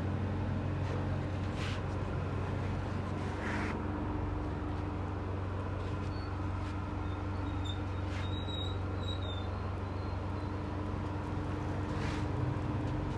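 Steady mechanical drone of a foundry melting furnace's air blower, a constant low hum with a few faint knocks of tools over it.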